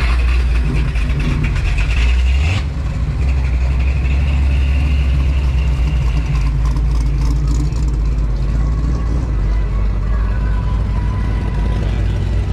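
A vehicle engine running steadily with a strong low drone. The sound changes abruptly about two and a half seconds in.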